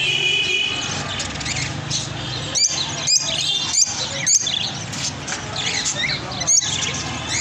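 Small birds chirping and twittering, with five loud sharp chirps through the middle, over a steady low background hum.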